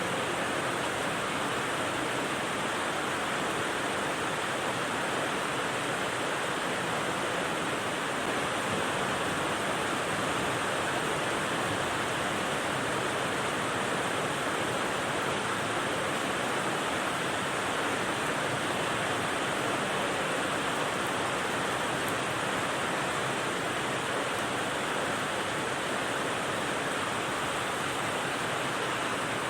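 Steady rain white noise: an even, unchanging hiss with no separate drops or changes in level.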